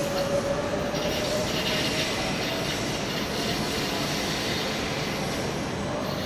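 Passenger train pulling out of the station, its running noise steady under a thin wheel squeal that slowly rises in pitch and fades out about halfway through.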